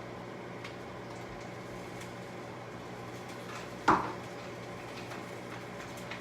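Steady low hum of a kitchen appliance, with one sharp clatter of a dish or pot about four seconds in.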